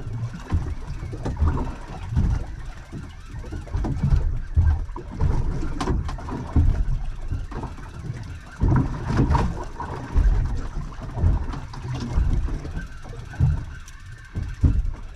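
Wind buffeting the microphone in uneven low rumbling gusts, with water moving against the hull of a small anchored boat.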